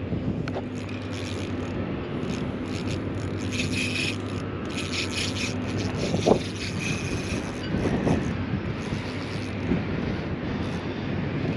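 Rubbing and scraping over steady wind noise and a low hum, with a scratchy stretch in the middle and a few short louder scrapes about six and eight seconds in.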